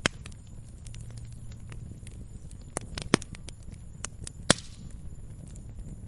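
Wood fire in a fireplace crackling, with irregular sharp pops. The loudest come right at the start, just after three seconds and about four and a half seconds in, over a low steady rumble.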